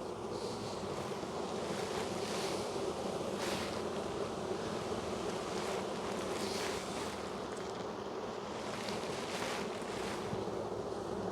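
Steady, dense hum of a crowded honey bee colony with the hive open, bees buzzing around the frames and a few passing close to the microphone.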